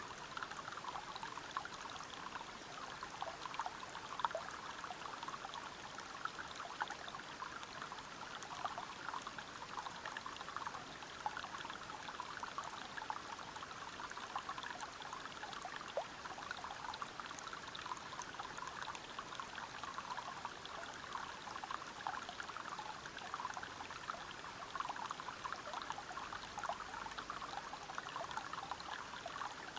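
Water flowing and splashing over rocks in a steady, even rush of many small splashes, from a small waterfall or river.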